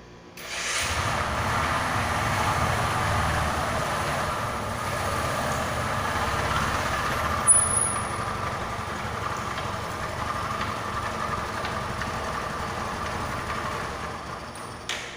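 Rouser 135 motorcycle's single-cylinder engine running. It starts abruptly about half a second in and goes on steadily, with one brief sharp peak about halfway, then drops away just before the end.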